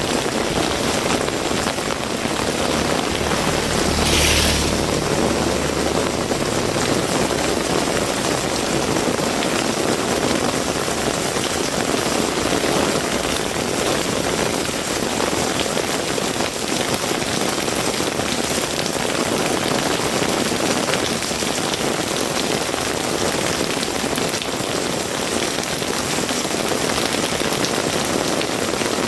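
Heavy rain falling steadily on surfaces around the walker, an even hiss throughout. About four seconds in, a brief louder high-pitched hiss comes with a short low rumble.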